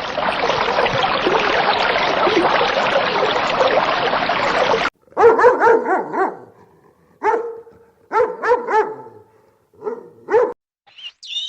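A loud, dense din cuts off abruptly about five seconds in. After it comes a dog barking in short bursts, several quick barks at a time, in about five groups.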